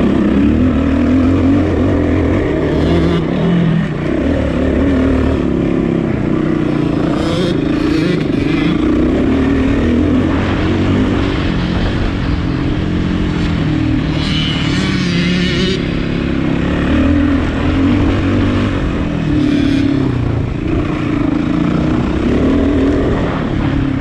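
Enduro motorcycle engine running at low to moderate revs, heard from on the bike, its pitch rising and falling with the throttle. A few brief bouts of hiss come over it, the longest about two-thirds of the way through.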